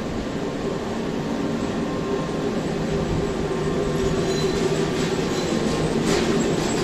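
Trenitalia Frecciarossa ETR 500 high-speed train: a steady mechanical hum and rumble that grows gradually louder, with a few sharp clicks near the end.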